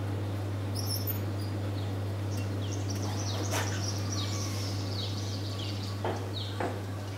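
Birds chirping in a run of short, falling notes from a couple of seconds in, over a steady low hum; a couple of soft knocks near the end.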